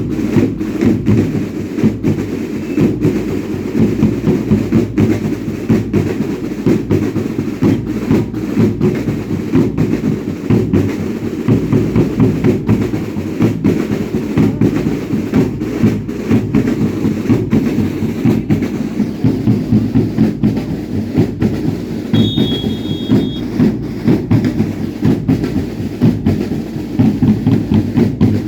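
Drums beating a steady, driving rhythm for a traditional dance, with a brief high whistle-like note about three-quarters of the way through.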